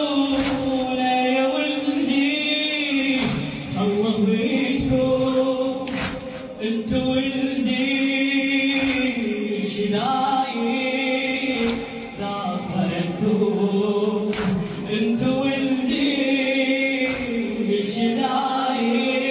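Shia mourning chant (latmiya) sung by male voices in long, wavering held notes, with occasional sharp hits.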